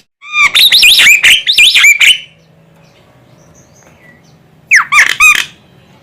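Female Javan myna (jalak kebo) calling: a loud burst of fast, up-and-down whistled notes lasting about two seconds. After a pause, a shorter burst begins with a falling whistle near the end.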